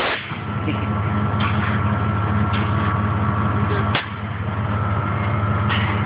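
Air-bag suspension on a lowrider car: short hisses of air valves firing, about five times, over a steady low drone and a thin steady whine.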